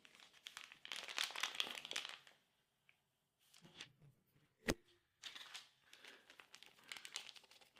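Plastic ration-pack packaging crinkling and rustling as a food pouch is handled and opened, in two spells. A single sharp tap comes between them and is the loudest sound.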